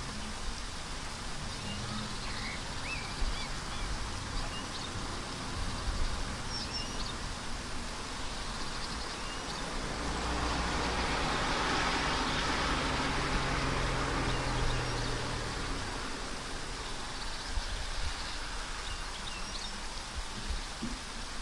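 A car passes on a road: from about halfway through, its tyre hiss and low engine hum swell for several seconds, then fade. Under it, a steady background hiss of wet surroundings and scattered short bird chirps.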